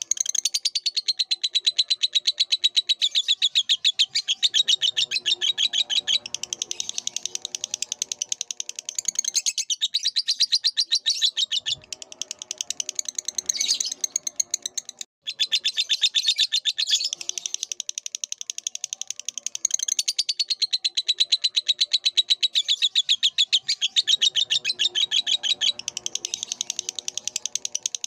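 Lovebird singing a long, rapid, chattering trill of high chirps, many a second, with a brief break about halfway through.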